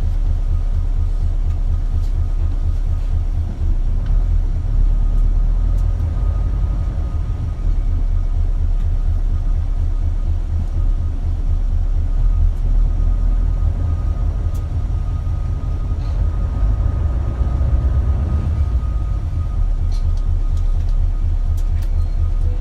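Isuzu KL-LV280L1 city bus running, heard from inside the cabin: a steady low engine rumble with an even pulse, and a faint high whine through the middle.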